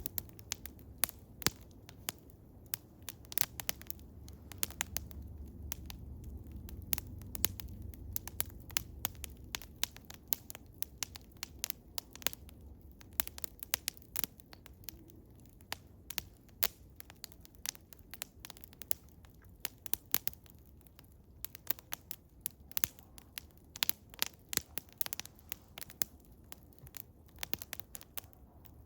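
Eastern hemlock wood fire crackling, with many sharp irregular pops and snaps over a low rumble that swells in the first third.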